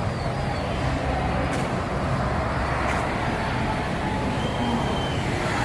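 Car on the road: a steady rumble of engine and tyre noise.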